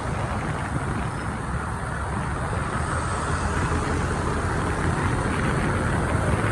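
Steady engine and road noise from riding a motorbike through city traffic, with a low rumble; it grows slightly louder near the end.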